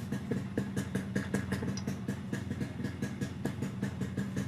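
Yamaha RX100's 98 cc single-cylinder two-stroke engine idling steadily, with a fast, even beat of exhaust pulses; the engine is newly reassembled after a full restoration.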